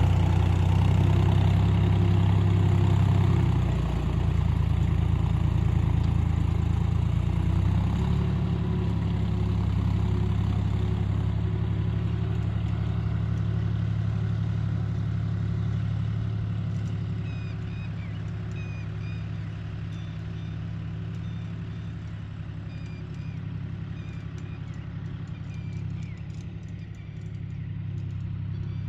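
John Deere tractor's diesel engine running steadily, louder for the first several seconds and then growing quieter after about halfway.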